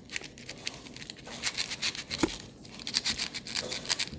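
Paintbrush scratching and dabbing as it is worked in old paint and brushed onto a wooden birdhouse: a string of short, irregular scratchy rustles.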